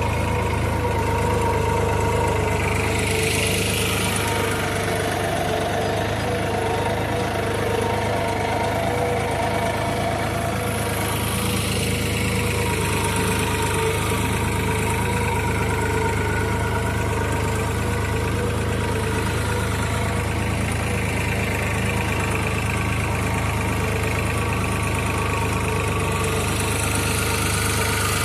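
New Holland 3600-2 tractor's three-cylinder diesel engine running steadily under load while pulling a reversible plough through the soil, holding its rpm without dropping.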